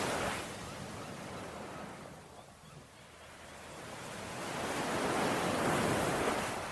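Ocean waves washing on a shore: one wave's wash fades away over the first two seconds, then another swells up and breaks about five to six seconds in, dropping off abruptly near the end.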